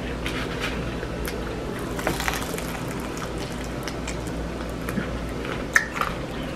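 Eating sounds of fried chicken: chewing with a few soft crunches and smacks, over a steady low hum.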